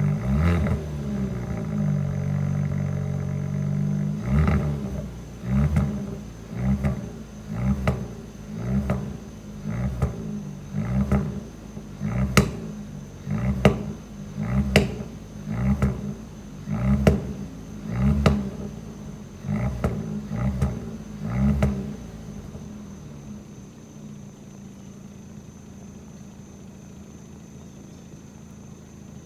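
2020 Kia Forte GT's 1.6-litre turbocharged four-cylinder through its stock exhaust, held at raised revs, then blipped about once a second some fifteen times, with several sharp pops and bangs among the blips. Near the end it settles to a quieter, steady idle.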